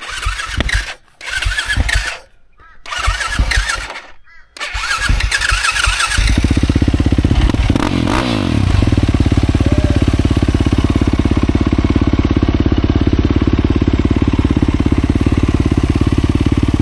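Dirt bike engine being started: a few short bursts with gaps between them, then it catches about five seconds in and settles into a steady, evenly pulsing idle.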